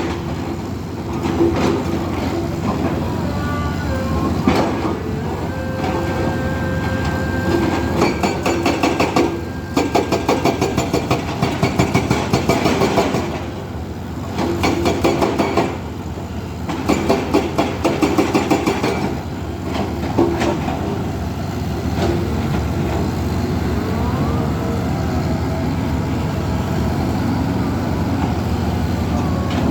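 Diesel engine of heavy construction machinery running under load. Its sound swells into stretches of rapid pulsing and falls back to a steadier run several times, with faint whining tones over it.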